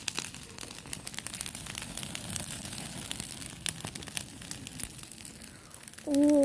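Campfire crackling: irregular sharp pops and snaps over a soft hiss.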